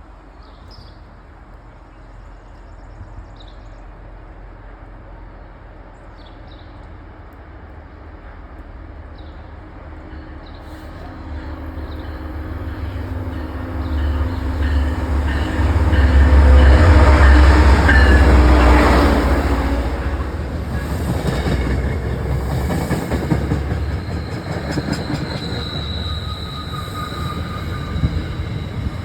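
MBTA Commuter Rail diesel locomotive, an MPI MP36PH-3C, coming into the station fast: it grows steadily louder and passes loudest about halfway through with a deep engine rumble, then the coaches roll by with wheel clatter and a high wheel squeal near the end.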